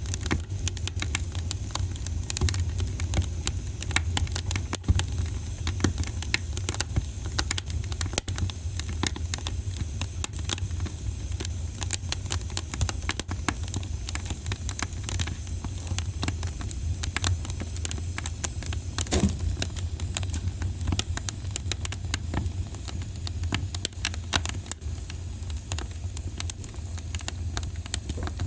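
Wood fire in a fireplace crackling, with dense, irregular pops and snaps over a steady low rumble of the flames.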